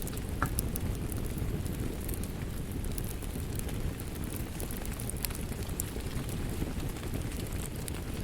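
Wood fire crackling, with scattered sharp pops and snaps, over a steady low wash of rain.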